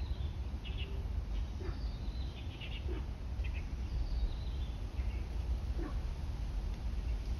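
Birds chirping in scattered short calls, with a few short low notes among them, over a steady low rumble.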